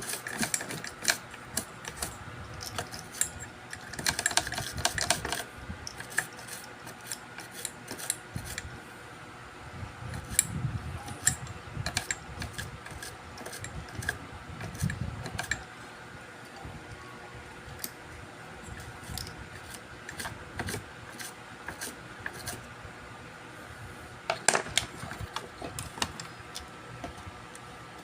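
Irregular small clicks, taps and light scrapes of hand tools and small metal parts being handled on a workbench. There is a denser flurry of clicks about four seconds in and again near the end, and a softer rubbing noise in the middle.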